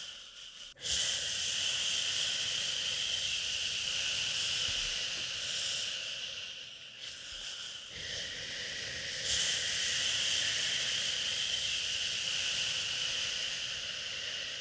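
Long drawn-out 'shhhhhh' shushing to soothe a crying baby, a steady hiss that starts suddenly about a second in. It dips briefly twice in the middle, as if for breath, then swells again.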